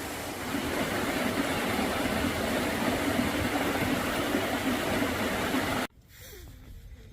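A loud, steady rushing noise that stops abruptly about six seconds in, leaving a much quieter background with a few faint clicks.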